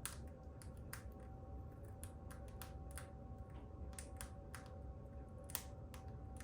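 Irregular light clicks and taps, the loudest right at the start and about five and a half seconds in, over a faint steady hum.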